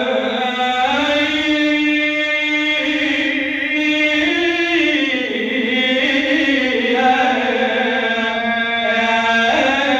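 A man's voice chanting a rubai in long, drawn-out held notes, sliding slowly from one pitch to the next.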